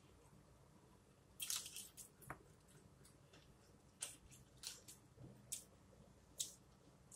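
Person chewing soft food (corn tortilla and rotisserie chicken) close to the microphone: quiet, with a handful of short wet smacking clicks scattered through.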